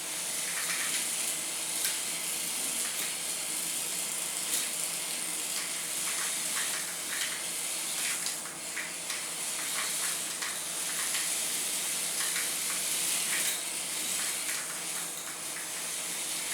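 Micro RC cars' tiny electric motors and gears running with a steady high-pitched buzzing hiss, with scattered light clicks throughout.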